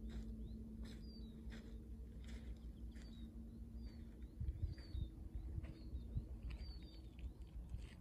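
Small songbirds chirping, many short high calls a second or so apart, over a low outdoor rumble. A faint steady hum runs underneath and steps up in pitch about halfway through.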